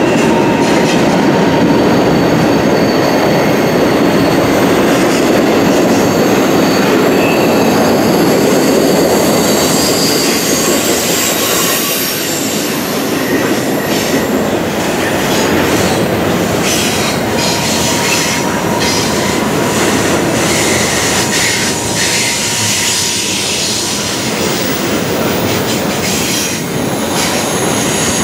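Double-stack intermodal well cars of a CPKC freight train rolling past on a curve: a steady rumble of steel wheels on rail, with thin wheel squeal from the curve and clicks over the rail joints in the second half.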